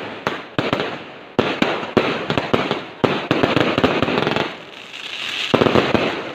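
Fireworks going off in rapid runs of sharp cracks and pops, with a loud cluster of reports near the end.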